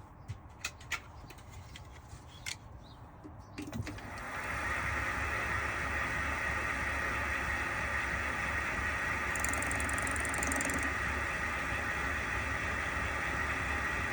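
A few sharp clicks and knocks, then about four seconds in a small metal lathe starts and runs steadily with a high whine and a low hum, facing off a small cylinder cap.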